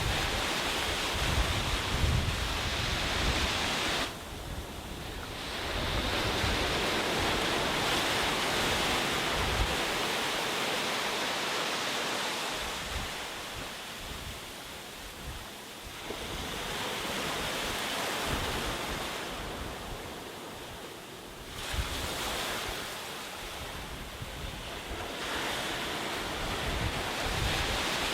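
Sea waves breaking and washing up a beach, swelling and easing in long surges. Wind buffets the microphone with low rumbling gusts at the start and again in the last few seconds.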